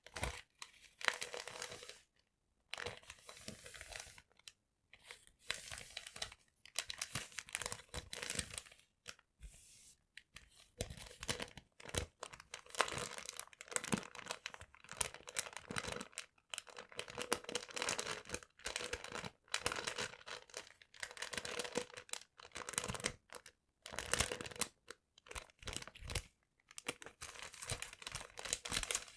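Paper being crumpled and torn, in irregular bursts of crackling separated by brief pauses.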